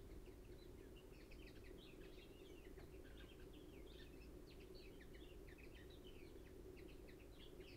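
Near silence: faint birds chirping in the background over a low steady hum.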